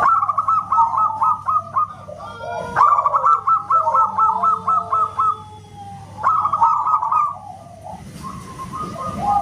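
Zebra dove (perkutut) singing: three phrases of rapid, evenly repeated short cooing notes, each lasting about one to two seconds, separated by brief pauses.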